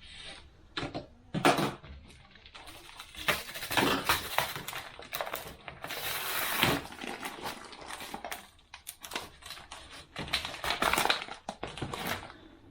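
Transmission clutch friction plates and steel plates clinking, clattering and sliding against each other as they are handled and stacked. The clicks come irregularly, busiest in the middle and again near the end.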